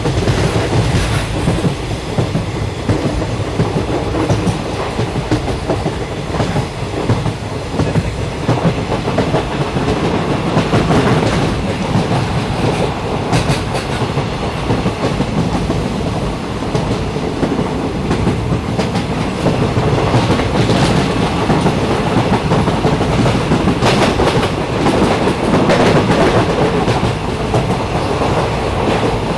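Steady rumble of a moving passenger train heard from inside the carriage, with the wheels clicking over rail joints now and then.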